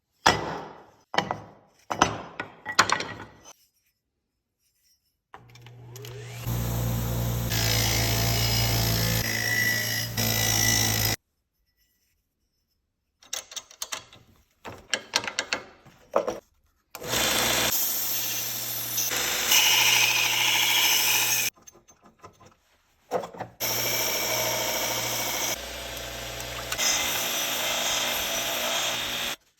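A power tool runs in three long stretches of several seconds each, cleaning a vintage roofing hatchet. A handful of sharp knocks at the start and short clattering between the runs break them up.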